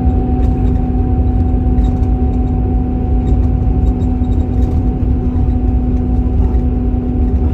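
Steady low engine and road rumble heard from inside a moving vehicle, with a constant hum that stays at one pitch.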